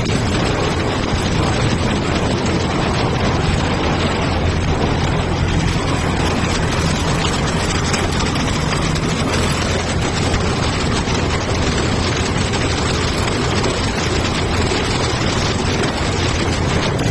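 Machinery of a PE/PP plastic bag washing and recycling line running, a loud, steady industrial noise with a low hum underneath.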